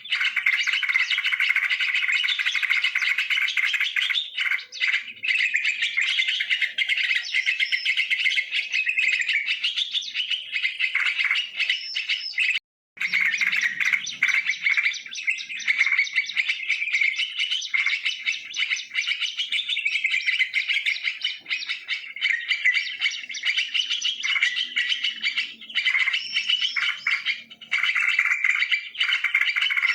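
Yellow-vented bulbuls (trucukan) chirping and chattering in dense, overlapping calls that hardly pause. The sound drops out for a moment a little before halfway through.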